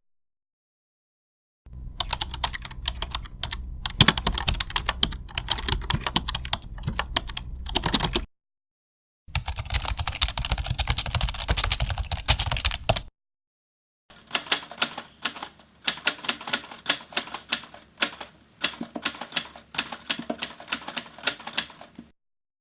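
Keyboard typing sound effects: three separate clips of rapid key clicking, each cut off by a short silence, the last with more evenly spaced keystrokes.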